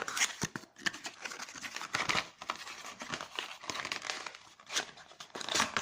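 Packaging crinkling and rustling in irregular bursts as a phone's power adapter and earphones are handled and pulled from their wrapping.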